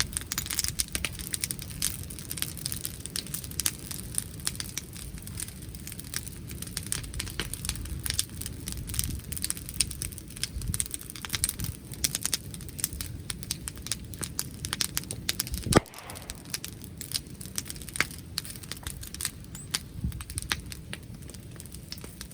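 Wood bonfire crackling with dense, irregular pops and one louder sharp snap about sixteen seconds in, over a low rumble of wind on the microphone.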